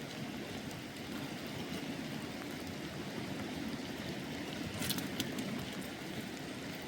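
Steady rush of rain and running water, with a few sharp clicks about five seconds in.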